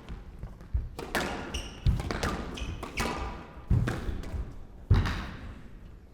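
Squash rally: the ball struck by rackets and smacking off the court walls, about seven sharp hits spaced roughly half a second to a second apart, each with a short echo.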